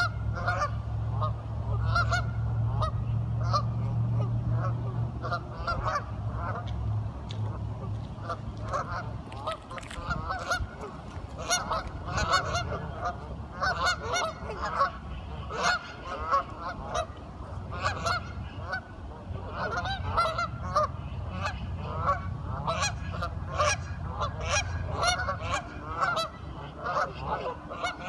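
A flock of waterfowl calling, many short honking quacks overlapping without a break, over a low steady rumble.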